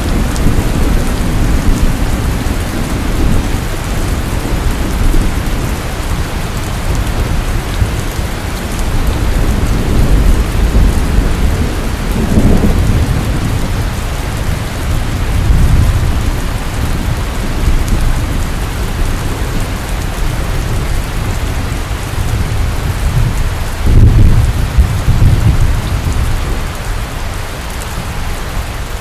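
Heavy rain falling steadily, with thunder rumbling through it. Low rolls of thunder swell several times, the strongest one near the end.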